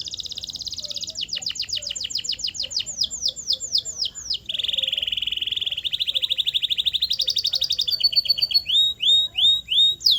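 Canary singing: a run of fast rolling trills and repeated down-slurred whistled notes, switching to a new phrase every second or two. About halfway through comes a lower, denser roll, and near the end short rising-and-falling notes repeat.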